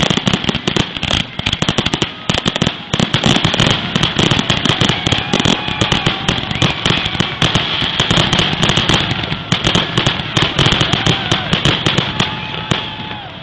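Fireworks going off in a rapid, unbroken run of bangs and crackles that thins out near the end.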